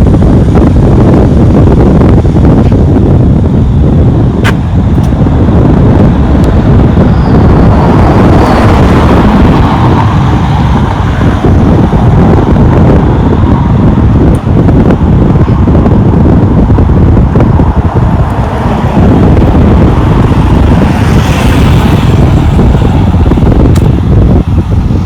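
Loud, steady low rumble of wind buffeting the microphone outdoors, with a rushing swell about a third of the way in and again near the end.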